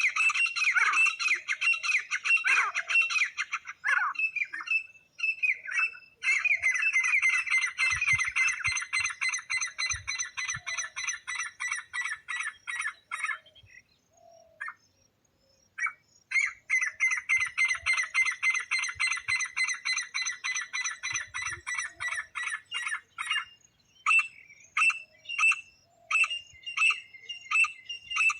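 Francolin (teetar) calling in long, fast runs of rapidly repeated harsh notes. The calls break off for a couple of seconds about halfway through, then start again. Near the end they come singly, about two a second.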